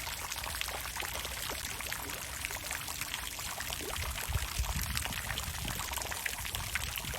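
Water fountain splashing steadily, a dense patter of falling water, with a few low rumbles about four seconds in.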